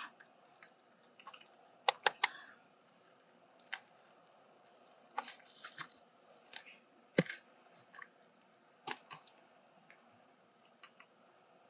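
Scattered sharp clicks and crunches of a mussel shell being handled and worked open. Three loud clicks come in quick succession about two seconds in, there is a crackly patch around the middle and another loud single click a little after. A faint steady high tone sits underneath.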